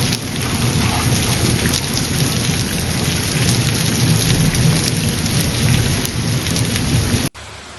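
Heavy storm downpour falling hard and steadily on streets and rooftops, with a deep steady rumble underneath. It cuts off suddenly near the end.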